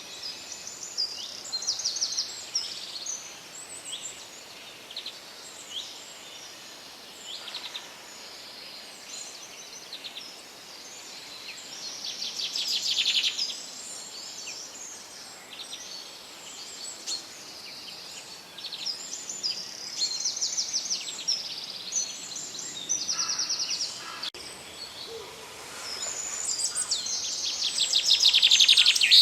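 Forest songbirds singing and calling in a chorus of short high phrases and fast trills. The trills swell louder about twelve seconds in and again near the end, over a faint steady background hiss.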